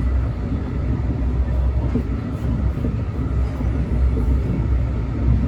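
A train running past with a steady low rumble, and a faint high tone held over it.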